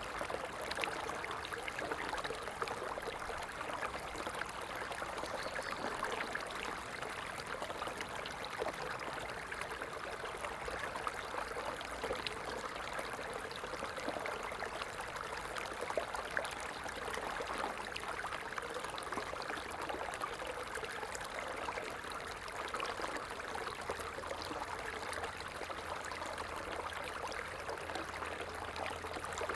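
A stream of water flowing, with a steady babbling and trickling.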